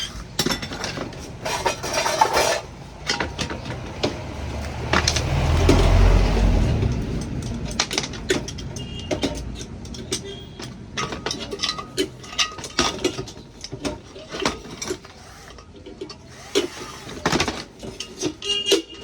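Irregular clinks and knocks of hard objects being handled, with a low rumble that swells and fades about five to seven seconds in.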